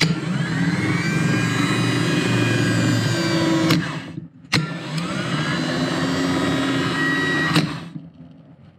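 A Honda Civic starter motor, off the car and powered straight from a battery, spins up with a rising whine and then runs freely. It does this twice, each run about three seconds long with a sharp click where it is cut off. The starter spinning shows the starter itself is good.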